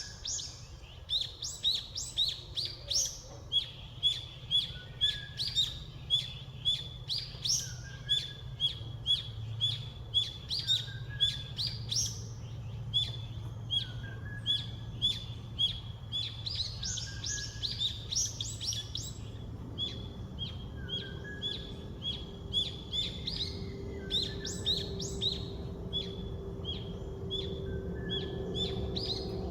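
Small songbirds chirping: a rapid run of short, high repeated notes, about two a second, with fainter lower calls among them, over a low steady rumble.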